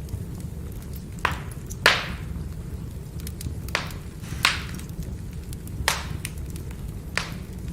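Burning firewood: a steady low rumble of the fire with six sharp pops and cracks from the logs, spread at irregular intervals, the loudest about two seconds in.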